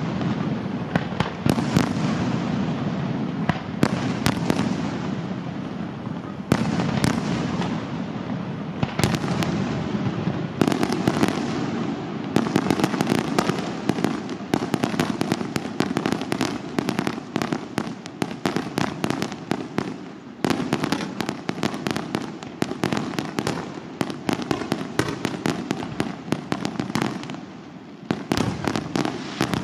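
Fireworks display by La Rosa Fireworks: shells bursting in rapid, overlapping succession, dense sharp bangs and crackle over a continuous rumble, with a brief lull near the end.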